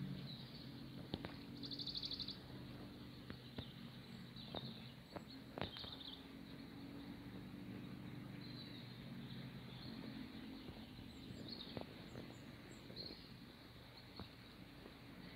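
Small birds chirping faintly, with a short rapid trill about two seconds in, over a low steady rumble; a few soft clicks.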